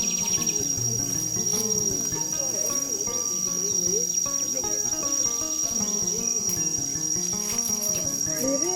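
Insects chirring in a steady, unbroken high-pitched drone. Music with a melody plays softly underneath.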